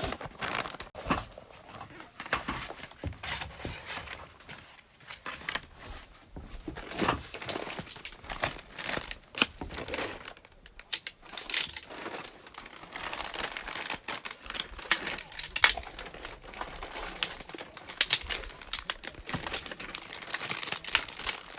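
Packaging or bags crinkling and rustling as gear is handled, with frequent small clicks and knocks.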